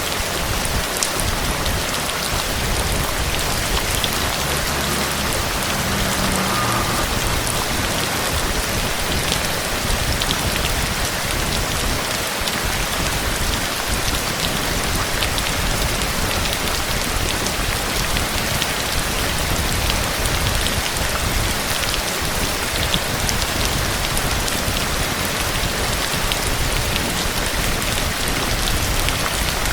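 Steady heavy rain falling and pattering on a surface, a dense even hiss with scattered individual drop hits.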